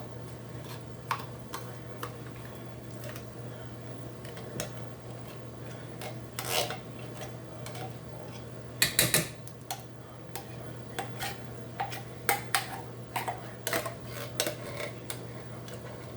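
Spoon and cookware clinking and scraping as chili is handled in a pot: scattered sharp knocks, a quick run of several hard clanks about nine seconds in, over a steady low hum.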